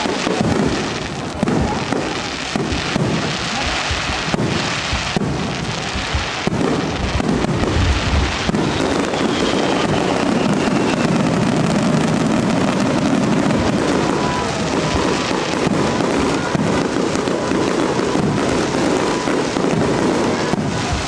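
Aerial firework shells bursting overhead in a rapid string of separate bangs, which about eight seconds in merge into a continuous rumble of many overlapping bursts.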